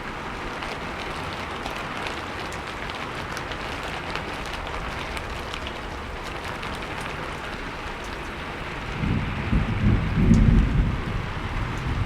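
Steady rain falling, with the patter of individual drops hitting a surface. About nine seconds in, a low rumble of thunder swells up and becomes the loudest sound.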